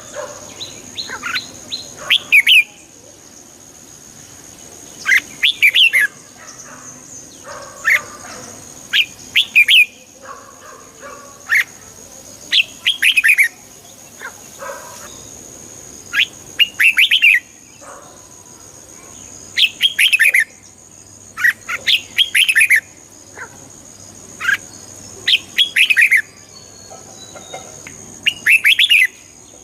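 Red-whiskered bulbul singing: short, bright warbled phrases repeated every two to three seconds.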